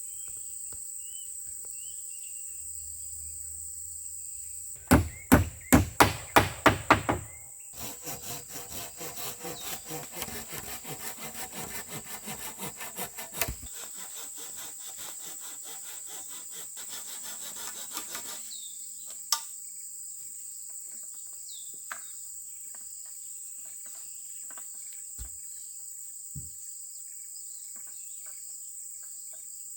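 Blows on wood while building a shelter: about ten sharp knocks in quick succession, then a longer run of quicker, lighter strokes that fades out. Insects chirr steadily behind them.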